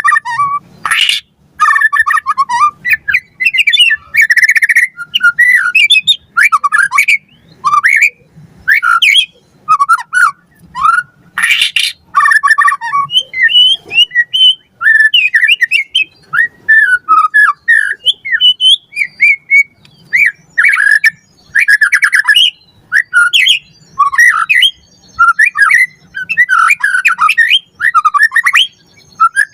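White-rumped shama singing a fast, varied song: quick whistled notes and glides, broken now and then by harsh, rasping calls.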